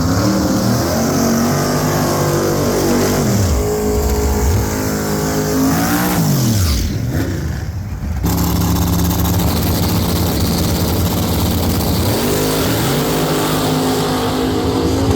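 Drag-racing engines revving hard, the pitch rising and falling again and again. The sound changes abruptly about eight seconds in, then steady engine sound and more revs follow.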